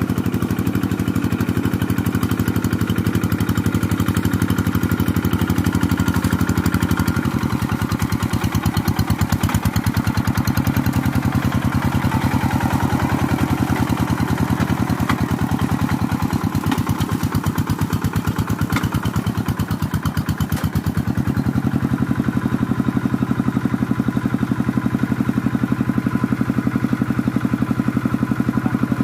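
An engine running steadily at a low, even speed; its note shifts a little in the middle and then settles back.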